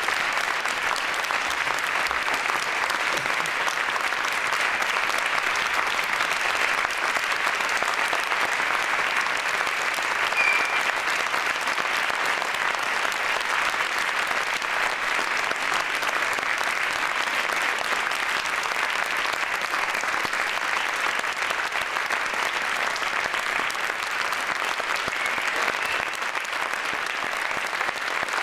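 Large crowd applauding: a dense, steady wash of many hands clapping with no single claps standing out.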